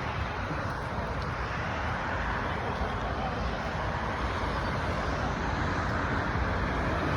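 Steady outdoor road-traffic noise with low rumble, slowly growing louder towards the end.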